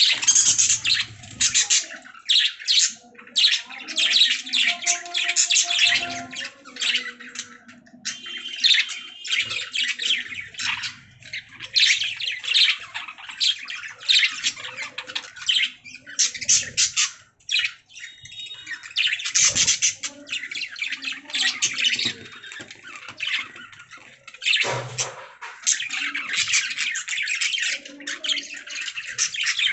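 Budgerigars chattering and warbling: a dense, fast run of high chirps and squawks with only brief pauses.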